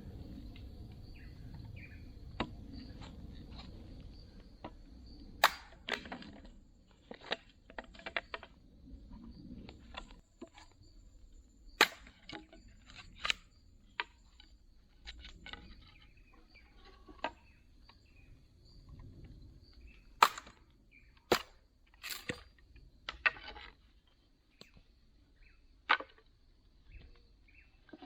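Dry, dead bamboo being cut and split: irregular sharp cracks and knocks, scattered a second or a few seconds apart, the loudest around the middle of the stretch.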